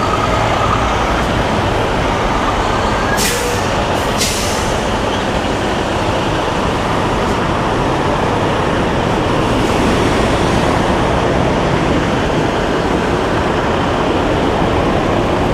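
Semi truck's diesel engine running steadily, with two short air hisses about three and four seconds in.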